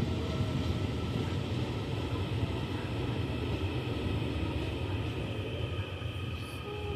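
Electric train running at a station platform: a steady low rumble with a faint steady electrical whine above it, easing slightly near the end.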